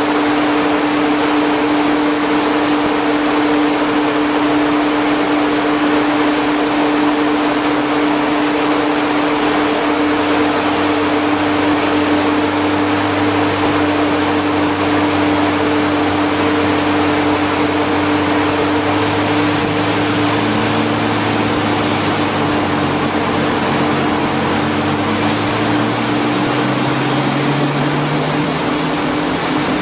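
Steady loud rush of a large fan blowing air, with a constant hum, typical of a dyno cell's cooling fan. From about ten seconds in, a car engine idles underneath, and its pitch rises slowly near the end.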